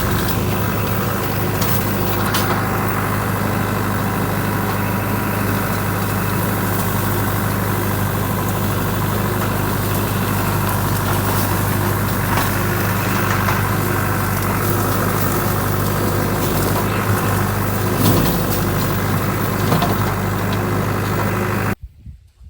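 John Deere 5410 tractor's diesel engine running at a steady speed, a constant low drone with road and wind noise, heard from on the tractor; it cuts off suddenly near the end.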